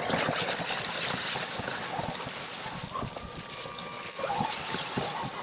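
Dry fall leaves crackling and rustling, with many short crunches, as something moves through them. A thin steady whine joins in about halfway through.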